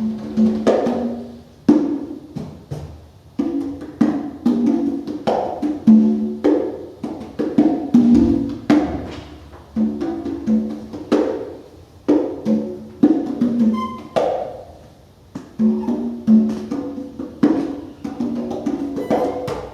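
Congas played by hand in free improvisation: irregular clusters of struck drum tones, each ringing briefly before dying away, several hits a second.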